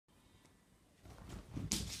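Two Yorkshire terriers play-fighting, a puppy and an older dog, starting about a second in, with a sharper sound near the end.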